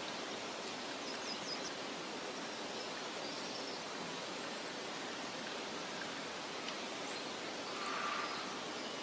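Steady soft outdoor rushing ambience, like wind through meadow grass, with a few faint, short bird chirps and one brief louder call about eight seconds in.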